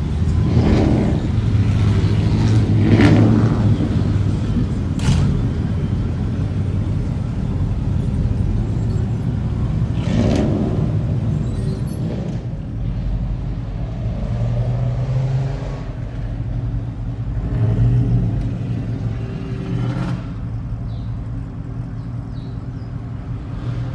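Motor vehicle engine running with a steady low rumble, its pitch rising and easing a few times.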